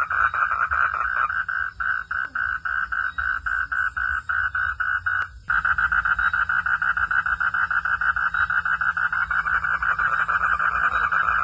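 Frogs calling at night in a rapid pulsed chorus, about six pulses a second, over a steady low hum. A little past five seconds in the sound cuts off for a moment and comes back louder.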